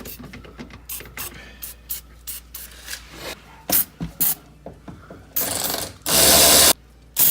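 Ratchet wrench clicking in quick, irregular strokes while working the exhaust bolts, followed near the end by two bursts of aerosol spray from a can of PB Blaster penetrating oil, the second longer and louder.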